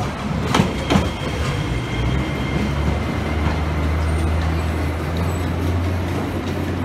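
Botchan Train, a diesel-powered replica of a small steam train, pulling away from the platform: two sharp wheel clacks about half a second and a second in, a faint thin wheel squeal, then a low steady engine drone as it moves off.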